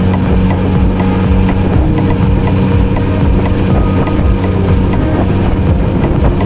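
Kawasaki Z900RS inline-four engine running at a steady cruise, its pitch holding even, with some wind noise on the microphone.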